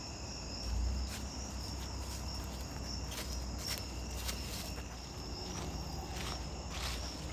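A steady, high-pitched chorus of insects chirping, with a few faint clicks scattered through it.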